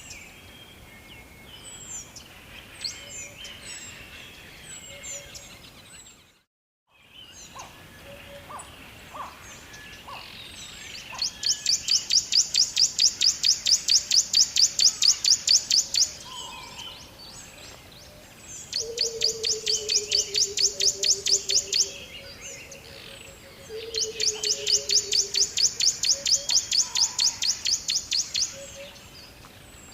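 Birds chirping and calling, with a loud, rapid pulsed trill that runs for several seconds three times. The audio drops out completely for a moment about six seconds in.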